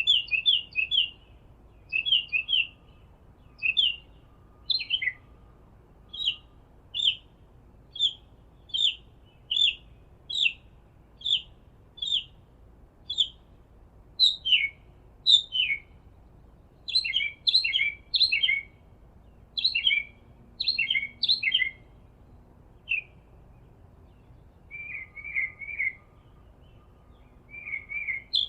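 A songbird chirping over and over: short notes about once a second, some sliding down in pitch, with quicker clusters of notes about halfway through.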